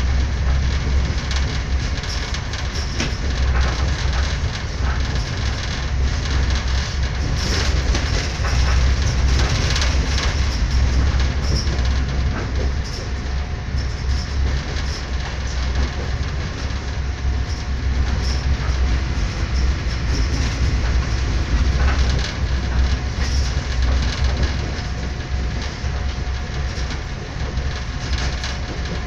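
Passenger train running at speed, heard from inside the carriage: a steady low rumble of the wheels and running gear, with scattered clicks and knocks from the track.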